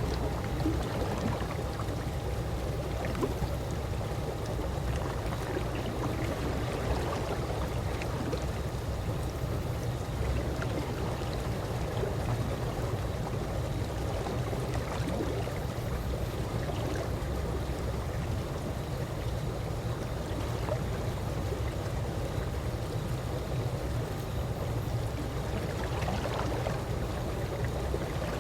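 Calm pool water lapping gently: a steady low wash with small, scattered splashes and ripples.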